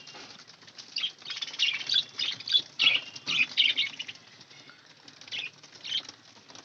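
A flock of budgerigars chirping and chattering in a breeding colony cage, with a quick run of sharp calls for a few seconds and two more shortly before the end.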